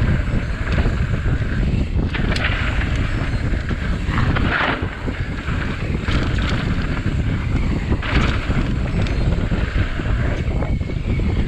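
Wind rushing over a ride camera's microphone as a mountain bike descends a trail, with a constant rumble and short hissing bursts every couple of seconds.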